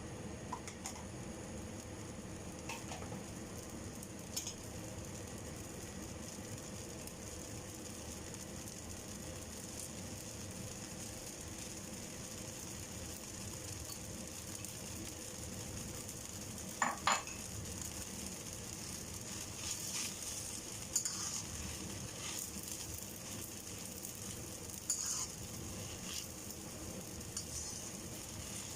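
Rice noodles stir-frying in a pan: a steady sizzle, with a utensil clinking and knocking against the pan every now and then. The loudest is a pair of ringing knocks about seventeen seconds in.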